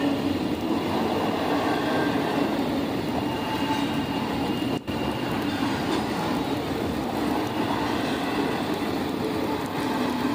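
A train rolling past: a steady, loud rumble of wheels on rails, with a few faint steady tones in it. The sound drops out for an instant about halfway through.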